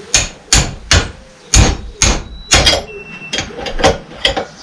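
Hammer blows on metal, about ten sharp strikes roughly two a second with a brief metallic ring, knocking loose a stuck fitting on a hydraulic pump.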